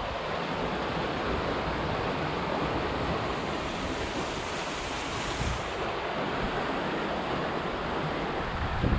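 Steady wind rushing over the microphone, an even rumbling hiss with no break.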